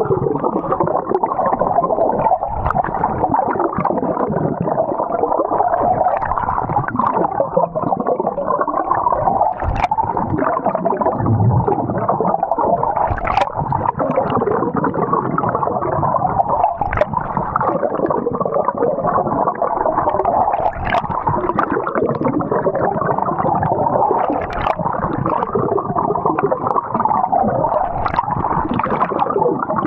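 Continuous muffled gurgling and sloshing of water, with a few short clicks scattered through it.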